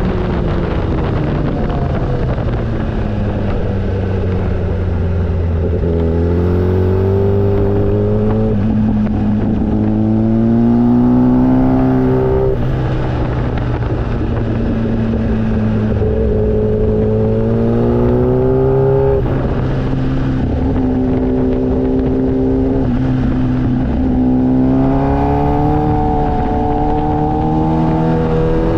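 Motorcycle engine pulling up through the gears on the move: its pitch climbs for several seconds, drops sharply at each shift, then climbs again, several times over.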